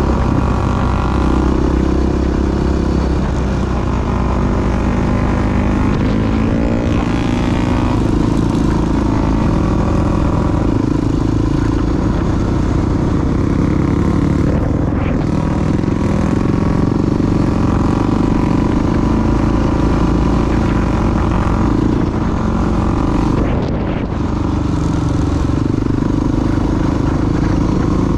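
Single-cylinder four-stroke dual-sport motorcycle engine running under way, heard from an onboard action camera. The pitch climbs around six to eight seconds in, and the engine eases off briefly near the end.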